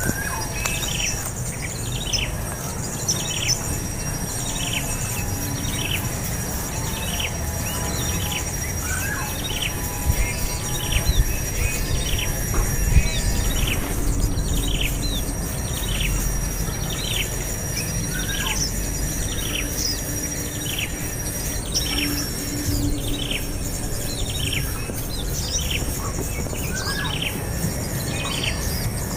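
Bird calls: a short, high chirp sliding downward, repeated about once a second, over a steady high insect drone.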